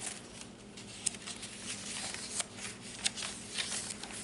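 Paper rustling and crinkling as pages and tucked-in paper pieces of a handmade junk journal are turned and handled, with a couple of sharp clicks.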